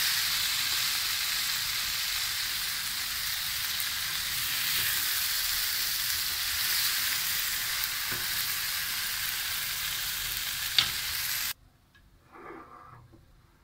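Chopped tomatoes and onions sizzling as they fry in a nonstick pan and are stirred with a spatula, cooking down for a gravy. A single sharp click comes near the end, and the sizzle then cuts off suddenly.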